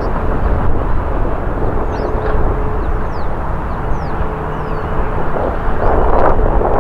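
Jet airliner engines rumbling steadily, with a faint steady tone in the noise, swelling louder about six seconds in.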